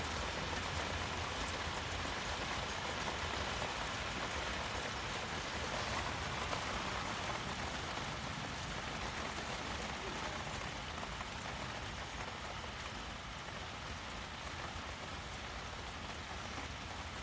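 Steady rain falling and pattering on surfaces, easing off slightly toward the end.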